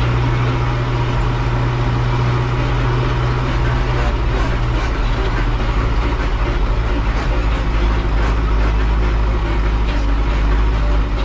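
Farm tractor engine running steadily at a constant low drone, its pitch shifting slightly about four seconds in.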